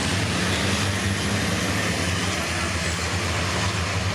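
Racing trucks' diesel engines running together in a steady low drone, with no sharp changes in pitch or level.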